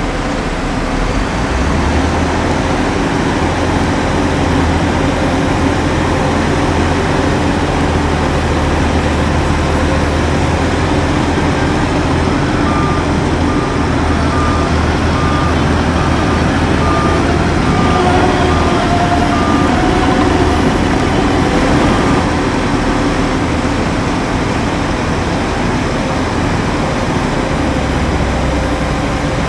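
Heavy diesel earthmoving machinery, a bulldozer and dump trucks, running steadily. Partway through, a reversing alarm beeps evenly for about seven seconds.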